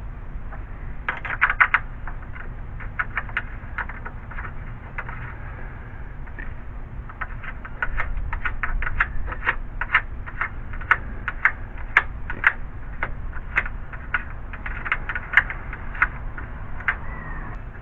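Irregular sharp clicks and light metallic taps from hand tools and parts being worked on a car's radiator support, coming in scattered clusters of two or three a second, over a steady low background rumble.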